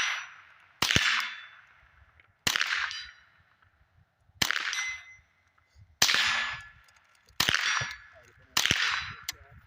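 Suppressed .22 LR semi-automatic rifle built on the Ruger 10/22 pattern, firing CCI rounds in a steady string: six evenly spaced shots about a second and a half apart. The rifle is cycling reliably with this ammunition.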